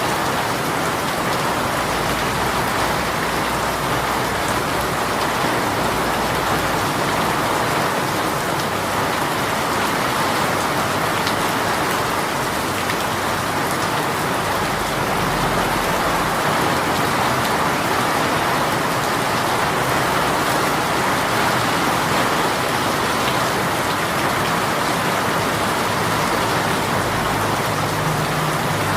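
Heavy rain shower falling steadily on surfaces, a dense, even patter.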